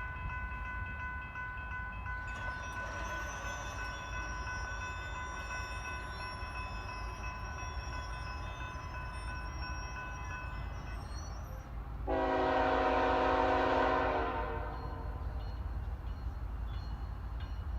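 Train rumbling steadily, with steady high ringing tones over it for the first eleven seconds or so. About twelve seconds in, a locomotive air horn sounds one long blast of about two and a half seconds, the loudest sound here.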